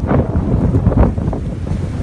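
Blizzard wind gusting hard against the microphone: a loud, uneven low buffeting rumble with repeated gust flares.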